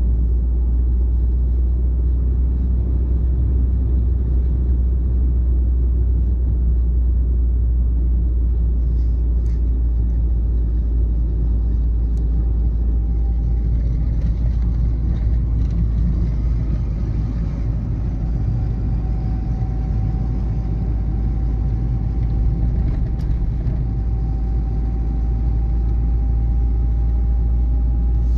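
Old Renault Twingo driving at a steady pace: a continuous deep rumble of engine and road noise, with a faint thin whine that becomes clearer and edges slightly upward in pitch in the second half.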